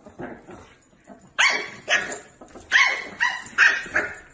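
A dog barking in six short, high-pitched yaps, the first about a second and a half in and the last four in quick succession.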